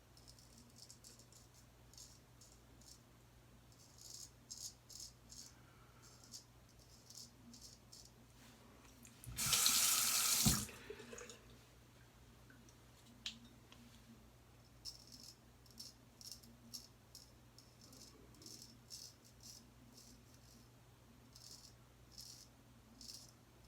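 Gold Dollar 208 straight razor scraping stubble in many short strokes, with a water tap running for about a second partway through.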